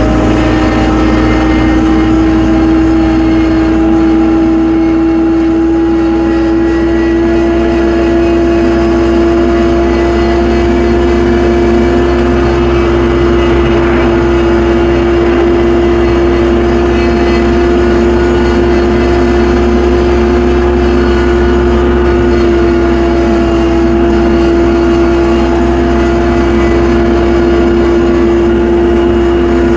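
Tractor engine running steadily under load, holding one even pitch.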